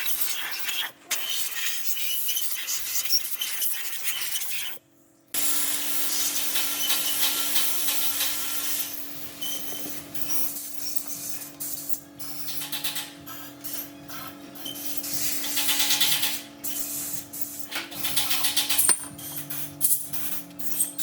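Abrasive rubbing and scraping on a hard workpiece in uneven strokes, with a steady low hum underneath. The sound cuts out briefly about five seconds in.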